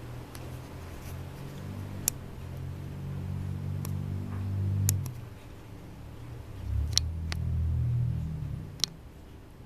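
Low engine hum of vehicles passing on a city street, swelling twice. A handful of sharp clicks and taps sound over it.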